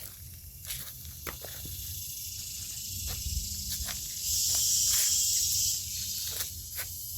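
Woodland ambience: a steady high-pitched hiss that swells louder for about a second and a half midway, with scattered light crackles of footsteps on dry leaf litter.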